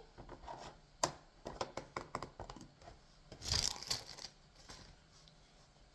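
A plastic slime tub being opened, its wrapping torn and crinkled: a string of small clicks and crackles, then a louder tearing rustle about three and a half seconds in.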